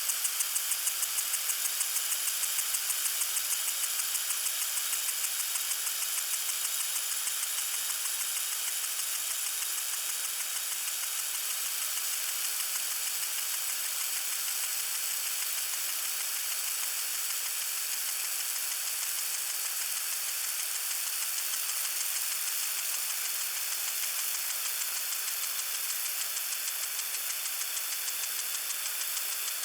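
Garden sprinkler spraying water: a steady hiss with a fast, even ticking running through it.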